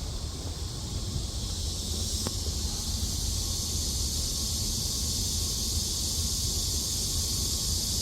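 Steady high-pitched drone of cicadas over a low rumble of wind on the microphone.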